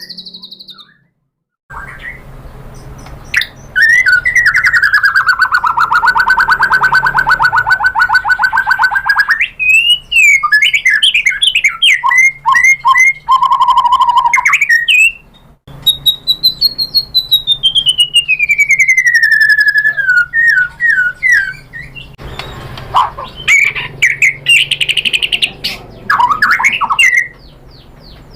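White-rumped shama (murai batu) singing a long, varied song: a long buzzy rattle, then quick gliding whistled phrases, a long whistle that rises then falls, and more quick notes near the end.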